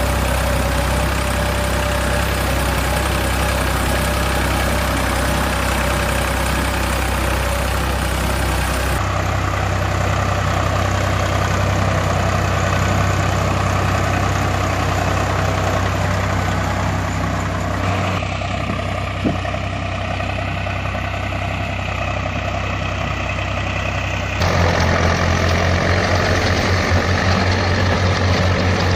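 Heavy diesel machinery engines, excavator and tractors, running steadily with a low drone. The sound changes abruptly three times as the footage switches between machines.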